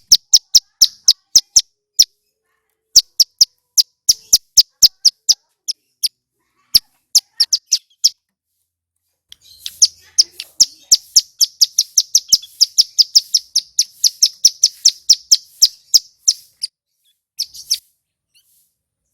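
Male ciblek gunung singing loud, sharp, high chirps in quick runs, breaking into a long fast trill about halfway through.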